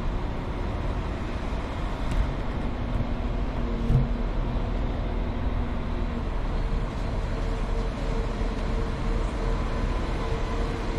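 Train running at a station platform: a steady rumble with a faint steady whine, and a short knock about four seconds in.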